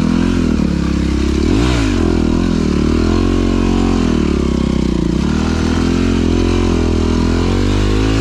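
Dirt bike engine running on a trail ride, its pitch rising and falling with the throttle, with a quick drop and rise in revs about two seconds in.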